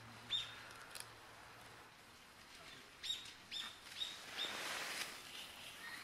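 Short, sharp high chirps of a small wild bird: one about a third of a second in, then a quick run of four from about three seconds in. A brief rush of splashing follows near the end, from a large-billed crow bathing in a shallow pool.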